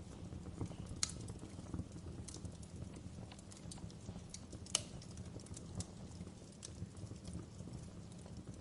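Wood fire burning in a fireplace: a steady low rumble of flames with irregular sharp crackles and pops, two of them louder, about a second in and near the middle.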